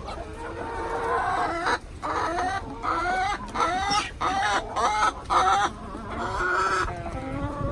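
Chickens clucking and calling, a run of short pitched calls one after another with brief gaps between them.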